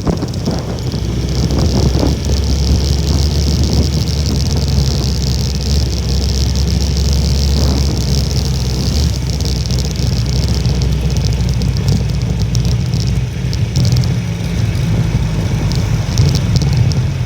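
Honda Little Cub's small 49 cc four-stroke single-cylinder engine running steadily while riding, with wind noise rushing over the microphone.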